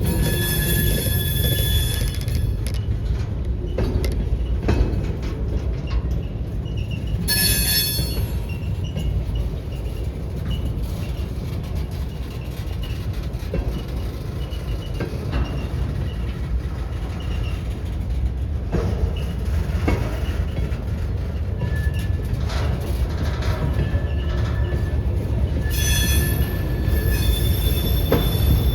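Freight train rolling by with a steady low rumble and scattered clicks from the wheels. High-pitched wheel squeal comes in short spells at the start, about a quarter of the way in, and near the end.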